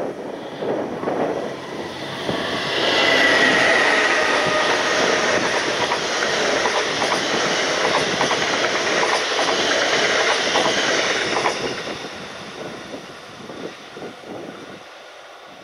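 Locomotive-hauled double-deck regional train passing close at speed, its wheels clacking on the rails, with a brief high whine about three seconds in. The sound swells quickly, holds, then fades from about twelve seconds in as the train moves away.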